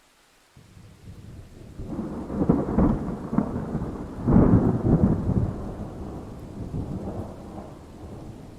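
Thunder: a clap that starts suddenly about half a second in, crackles to two loud peaks and then rolls away into a fading rumble, with rain under it.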